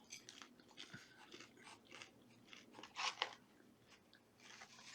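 A person chewing food close to the microphone, with faint soft crunching and a couple of louder crunches about three seconds in.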